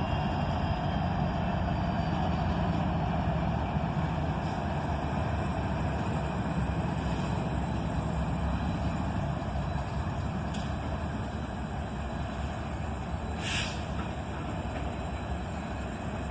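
Heavy freight train pulling slowly away: steady rumble of the diesel locomotives and rolling cars, the engine drone slowly fading. A short hiss sounds about thirteen seconds in.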